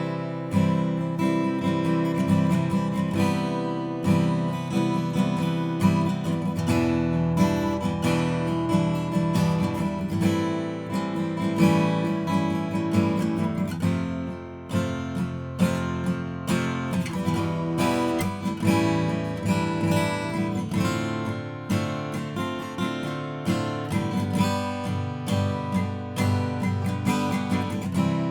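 Mentreel HB-8 DC BK 41-inch acoustic guitar, a cutaway with a spruce top and mahogany back and sides, strummed in chords with a steady rhythm of many strokes.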